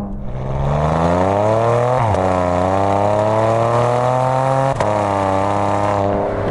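Porsche Macan accelerating with its Armytrix valvetronic cat-back exhaust in race mode, valves open. The exhaust note climbs in pitch, drops at an upshift about two seconds in, climbs again, and steps down at another shift about five seconds in.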